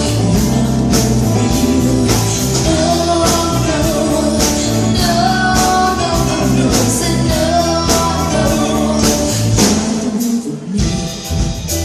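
Live band playing a rock-style cover song: a sung vocal over guitar, bass and drums keeping a steady beat. The bass drops out briefly near the end.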